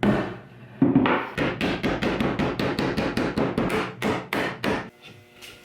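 A hammer striking wood in a fast, even series of taps, about six a second, after a couple of separate blows.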